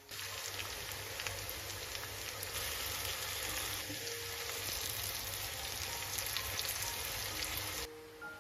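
A steady, rain-like rushing hiss that starts suddenly and cuts off suddenly near the end, over soft mallet-percussion music.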